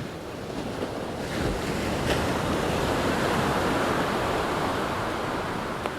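Ocean surf: a wave rushes in, swelling from about a second in and easing off near the end.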